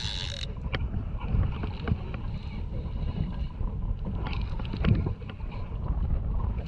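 Small fishing boat under way at sea: a steady low rumble of the boat with wind on the microphone and a few small knocks.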